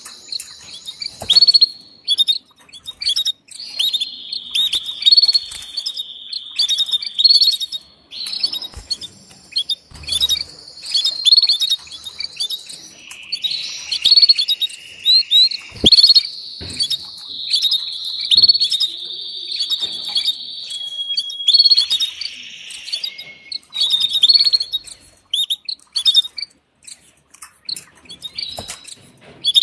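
Canaries chirping and trilling: quick high chirps mixed with several long held trills that last a few seconds each. A few soft knocks are scattered through. The recording is presented as a female canary's mating call.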